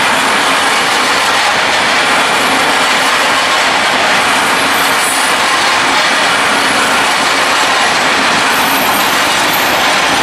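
Freight train wagons rolling past close by: a steady, loud noise of steel wheels running on the rails. A faint high squeal of the wheels comes in near the end.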